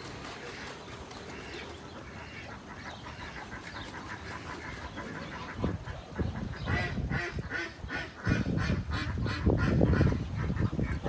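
Ducks quacking in a rapid run of short calls, starting about halfway through, over a low rumbling noise that gets loudest near the end.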